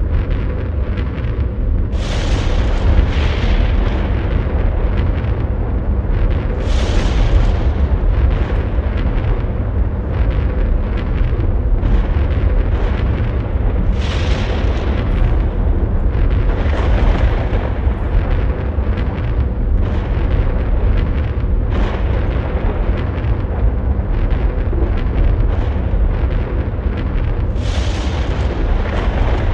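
Performance soundtrack of loud, continuous deep rumbling noise, with swells of hissing noise surging in every few seconds.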